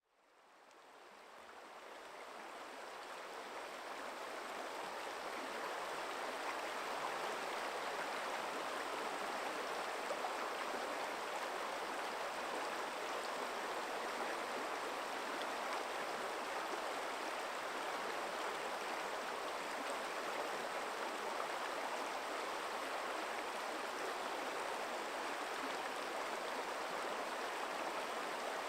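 Forest stream flowing over rocks, a steady rushing of water that fades in over the first few seconds.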